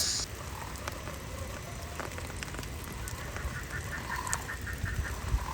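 Steady rain, with a rapid run of short honking calls, about eight a second, a little past the middle.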